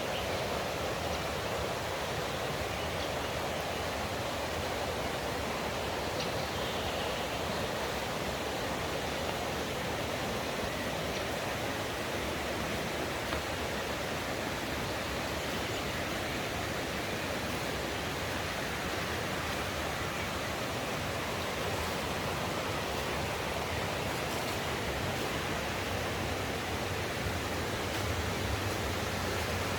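Mountain stream rushing steadily over rocks, an even wash of water noise with a low rumble beneath.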